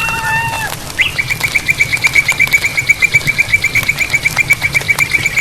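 A long, even trill of rapid high notes, about nine a second, from a calling animal, starting about a second in; just before it, a held, slightly wavering call on several tones fades out.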